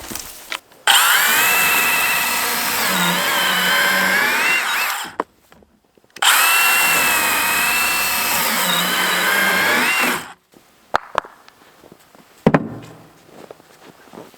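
A power saw cutting firewood, run in two bursts of about four seconds each. Its motor whine dips and wavers in pitch as it bites into the wood, and it stops abruptly after each cut. A few sharp knocks follow near the end.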